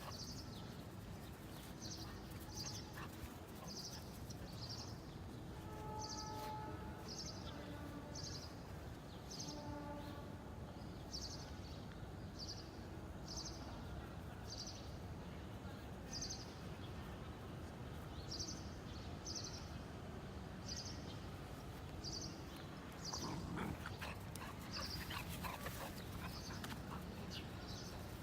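Golden retriever puppy whimpering in short, thin cries, mostly between about six and ten seconds in. Under it runs a high chirp that repeats every half second or so, with pauses.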